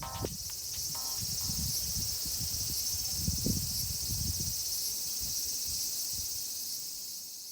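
A steady, high-pitched insect chorus, like crickets, with irregular low rumbles underneath; it fades out at the end.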